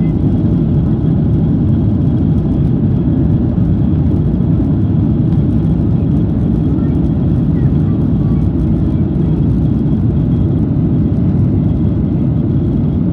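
Jet airliner cabin noise: the engines and airflow make a steady, loud low rumble, with no changes in level.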